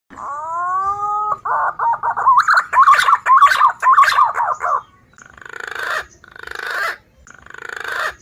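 Punai (green pigeon) lure call: a rising whistled note and a quick warbling whistle, then three rasping, pulsed calls that swell, about a second apart.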